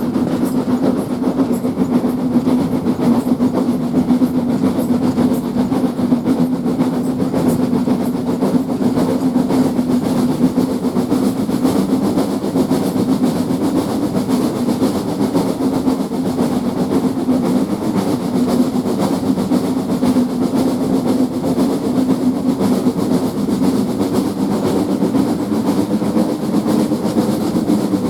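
Steam-hauled heritage passenger train running along the line: a steady rumble of wheels on the rails that holds even throughout.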